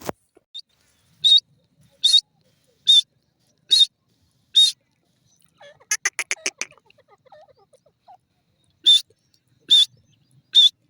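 Grey francolin calling: a series of short, loud, high notes a little under a second apart. About six seconds in they break into a quick rattling run of about eight notes, then the spaced calls resume. A sharp click comes right at the start.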